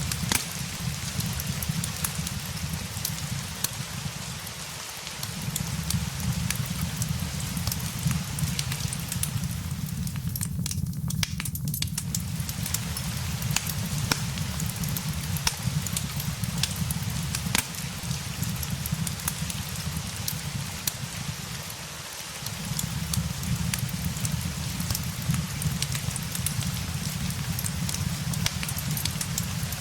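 Steady rain hiss mixed with a crackling fire, frequent sharp pops and snaps scattered through it, over a low rumble that briefly drops away twice.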